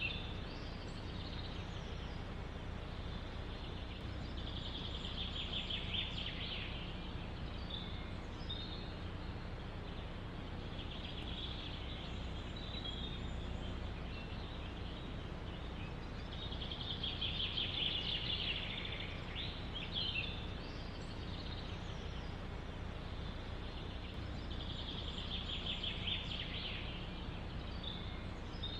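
A songbird singing short trilled phrases, one about every six seconds, over a steady low rumble of wind in the forest.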